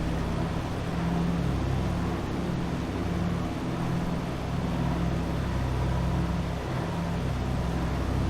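A Douglas DC-3's twin radial piston engines droning steadily, a deep layered hum with a slight slow pulsing in level.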